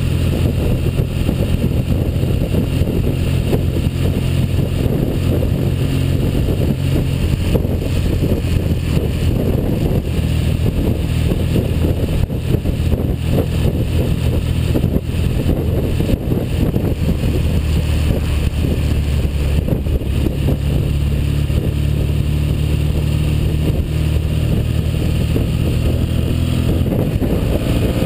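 1959 Norton Dominator 600 parallel-twin engine, freshly overhauled, running steadily. Its note shifts down and up a few times, around a third of the way in and again past the middle.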